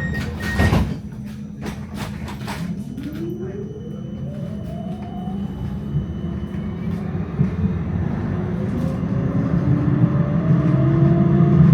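Electric tram heard from on board: a few sharp clicks and knocks, then the traction motor's whine rises in pitch as the tram gathers speed. The low rumble of the wheels on the rails grows louder as it accelerates.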